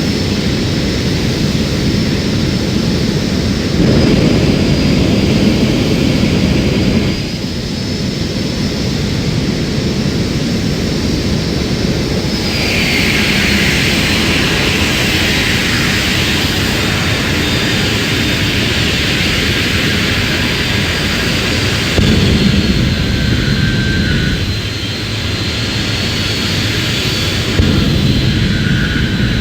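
Vampire jet car's turbojet engine running: a loud rushing noise with a thin, steady high turbine whine over it. The noise swells louder a few times, and a brighter hiss joins in about midway.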